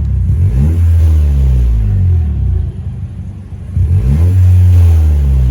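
Toyota Corolla 1.2-litre turbo four-cylinder being revved through an aftermarket Powerflow exhaust, with a deep note. It is held up, falls back to idle for about a second midway, then is revved again.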